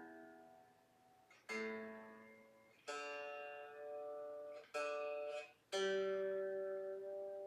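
Squier Jagmaster electric guitar being tuned: single notes plucked on different freshly fitted strings, four times, each left to ring out and fade.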